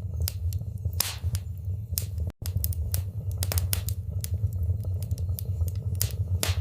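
Wood fire in a fireplace crackling, with a steady low rumble of the flames under a stream of small snaps and a few louder pops. The sound cuts out for an instant about two and a half seconds in.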